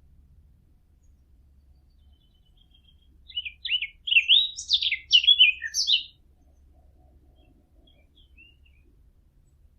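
A fig bird, a Sylvia warbler, singing one song phrase: a few faint twittering notes build into a loud, fast, varied warble that lasts about three seconds, starting about three seconds in.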